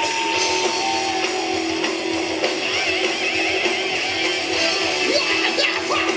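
Heavy metal band playing live, an instrumental passage led by electric guitars.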